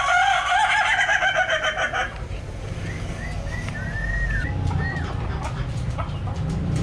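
A rooster crows loudly for about two seconds, one long wavering call. Then a few short, soft chirps from budgerigars.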